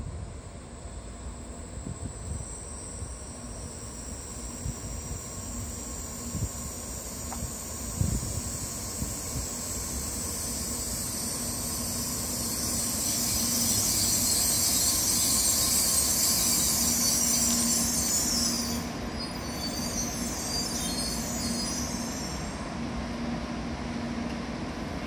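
N700-series Shinkansen train pulling into the platform and braking to a stop. High squealing tones and a rushing hiss build to their loudest as the train draws alongside, then drop away suddenly about 18 seconds in, leaving a low steady hum.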